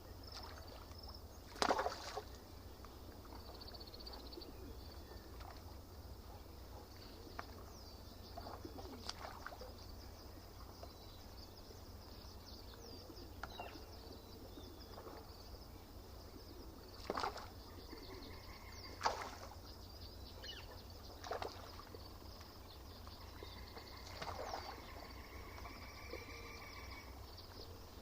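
Lakeside ambience: small birds chirping, with half a dozen short water splashes or laps at the shore, the loudest about two seconds in, over a steady low rumble.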